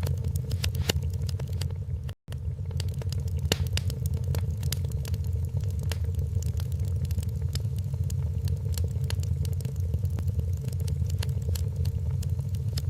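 Wood fire crackling, with many small sharp pops scattered irregularly over a steady low rumble. The sound cuts out for a split second about two seconds in.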